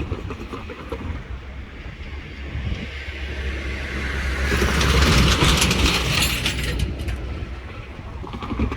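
A train passing close by. The low hum and the rushing, clicking wheel noise swell to their loudest about five seconds in, then fade.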